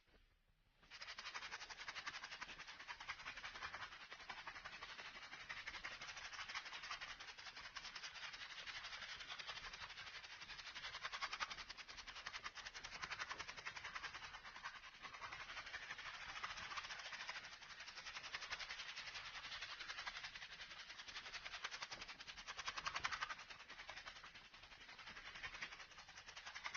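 A continuous fast rattling, like something small being shaken, made of many fine rapid ticks that swell and fade in loudness, loudest about eleven seconds in and again near the end.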